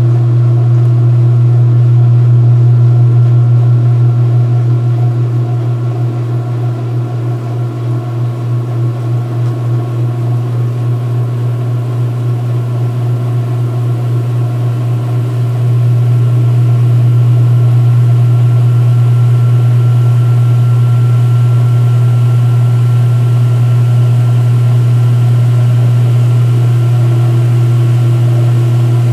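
2016 Speed Queen top-load washer in its rinse spin-drain: the motor hums steadily while the tub spins and the water is pumped out. About a third of the way in the sound dips and wavers for several seconds, then settles back to a steady hum.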